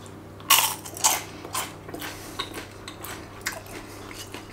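Crunching of a crispy air-fried rösti fry (shredded potato shaped like a French fry) being bitten and chewed: one loud crunch about half a second in, a second soon after, then several fainter crunches as it is chewed.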